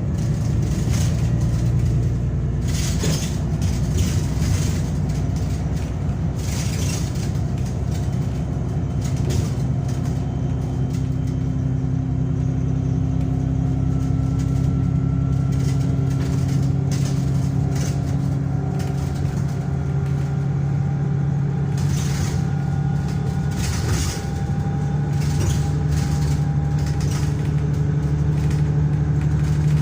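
VDL DB300 double-decker bus engine running under load, its note dropping at the start and stepping back up near the end, while a fainter whine climbs slowly in pitch in between. Scattered short clicks and knocks sound over it.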